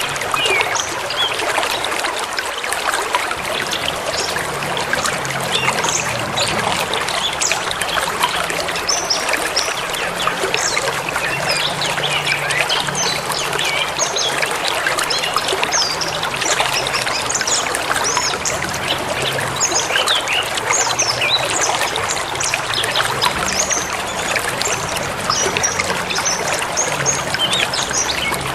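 A forest river rushing and trickling steadily, with many small birds chirping and calling over it throughout.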